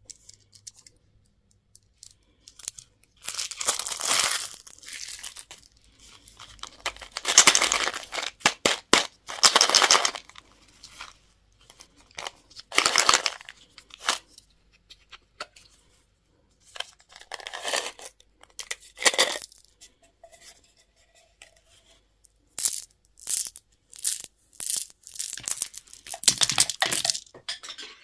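Candy packaging being torn open and crinkled by hand, in repeated bursts of tearing and rustling, some over a second long, mixed with short sharp clicks and crackles.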